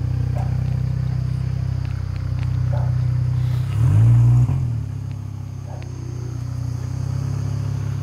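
Car engine idling steadily, with one quick rev blip about four seconds in that rises and falls back to idle.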